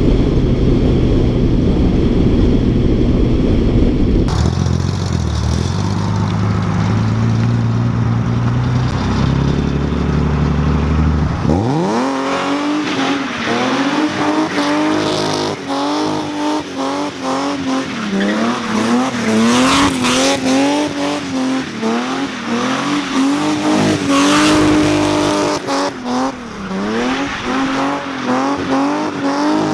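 A car engine running hard. It starts as a low rumble; about twelve seconds in the pitch sweeps up quickly, then holds high, wavering and dipping every couple of seconds as the throttle is worked.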